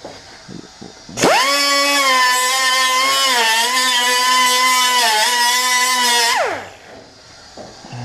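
A power grinder spins up about a second in and whines steadily, its pitch dipping briefly twice as it bites in, then winds down with a falling whine near the end, grinding out welds on a metal toolbox.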